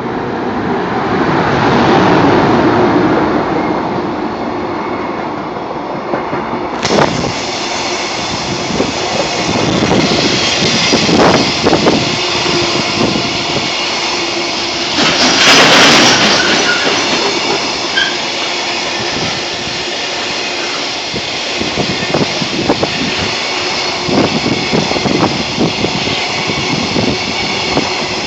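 Freight train of container wagons, hauled by an EF510 electric locomotive, passing by: a steady rumble and clatter of wheels on the rails. About halfway through there is a louder rush.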